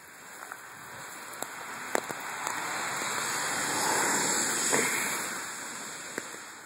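Hiss of rain on wet pavement, swelling to a peak about four seconds in and then fading, with a few light clicks.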